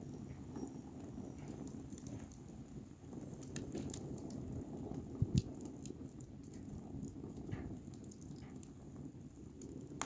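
Wood fire burning: a steady low rush with scattered crackles and snaps, and one louder pop about five seconds in.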